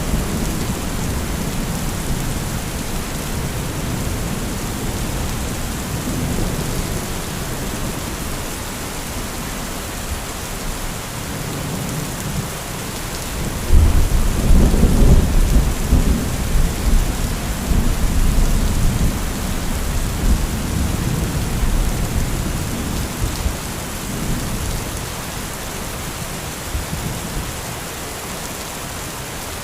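Heavy rain falling steadily during a thunderstorm, with thunder rumbling low at first; about halfway through a loud clap of thunder breaks suddenly and rolls away over several seconds.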